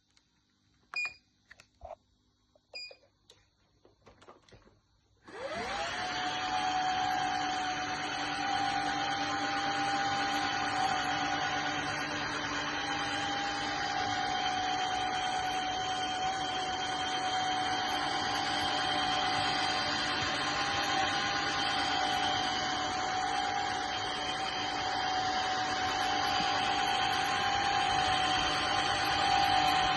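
Xiaomi Truclean W20 wet-dry vacuum switching on about five seconds in: its motor spins up with a quick rising whine and then runs steadily with a high whine over a rushing hiss. Before it starts, a few short beeps and clicks.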